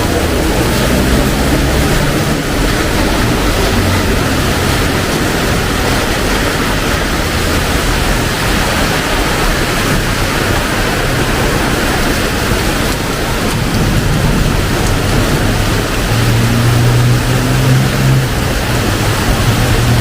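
Heavy rain pouring down steadily, with the low hum of passing vehicle engines under it, louder in the last few seconds.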